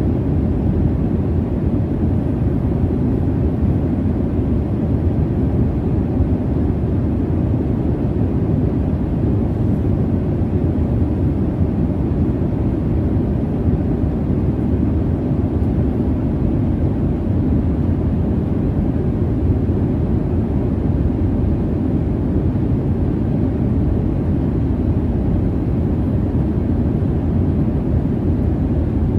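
Steady, low jet-airliner cabin noise, the even rumble of engines and airflow heard from inside the cabin during flight.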